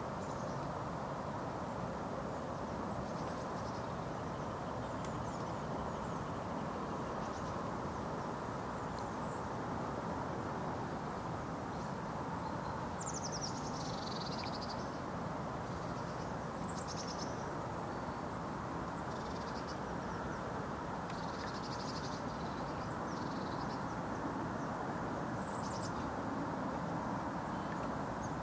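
Small birds giving short high chirps now and then over a steady low background noise.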